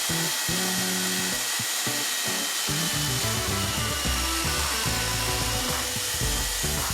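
Corded DeWalt circular saw fitted with a Prazi beam-cutter attachment (a chainsaw-style bar and chain) running steadily as it cuts through wood, with background music.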